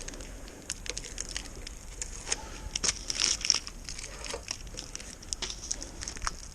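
Packaging crinkling and rustling as it is handled, an irregular string of small crackles and clicks.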